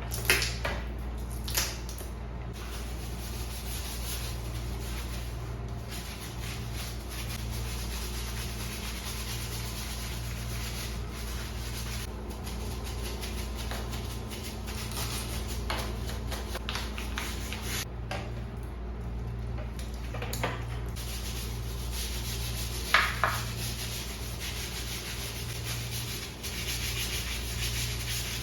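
Steady scrubbing of a surface during cleaning, with a few sharp knocks and clicks, the loudest near the end.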